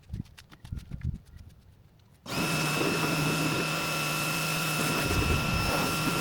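A loud electric motor-driven machine starts abruptly about two seconds in, runs steadily with a high whine over a low hum, and cuts off near the end. A few faint taps come before it.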